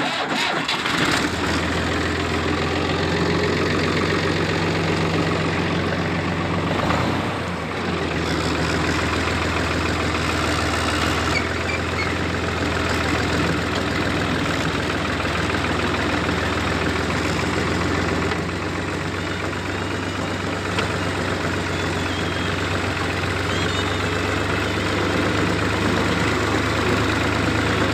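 Tractor engine idling steadily, with a brief dip in level about seven seconds in.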